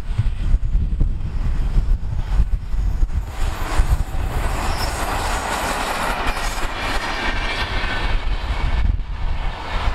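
An Indian Railways WAP-4 electric locomotive and its coaches pass close by, wheels rattling and clicking on the rails. The rattle builds to its loudest around five to seven seconds in, then fades. Wind buffets the microphone throughout.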